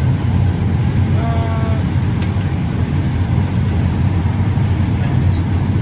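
Combine harvesting corn, a steady low drone of the engine and threshing heard from inside the cab. A brief faint tone sounds about a second in, and a single click a little after two seconds.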